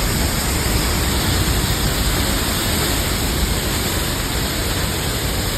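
Steady rush of Niagara Falls' falling water: a loud, even roar of water with no breaks.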